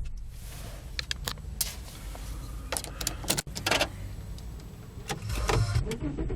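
2003 Volkswagen Touareg's V6 engine idling with a low steady hum, heard inside the cabin with the door shut. Several sharp clicks and knocks sound over it between about one and four seconds in.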